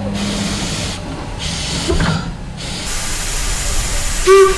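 Steam locomotive venting steam: a rushing hiss that comes in waves and spreads wider and louder after a few seconds, over a steady low hum. A short pitched call, the loudest sound, cuts in near the end.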